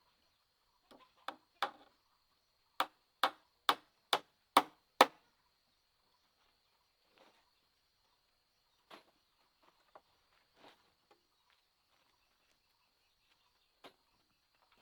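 Chopping: two lighter blows, then a run of six sharp, evenly paced strikes at about two a second. A few scattered softer knocks follow, over a faint steady high hiss.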